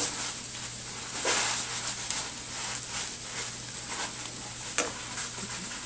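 Onion, tomato and spice masala sizzling and crackling in a frying pan as it fries down, with a couple of faint clicks.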